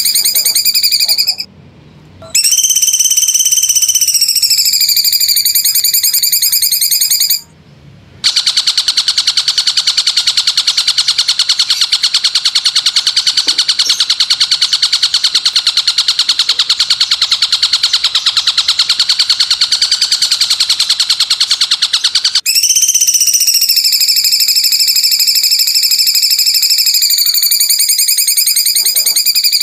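Recorded animal calls from a masteran birdsong-tutor track. A sustained, high, wavering whistled buzz with overtones comes twice near the start, broken by short pauses. From about eight seconds a long, very fast rasping trill runs until about twenty-two seconds, and then the wavering whistled buzz returns.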